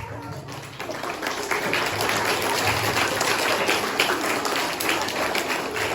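Audience applauding: a dense patter of many hands clapping that builds about a second in and then holds steady.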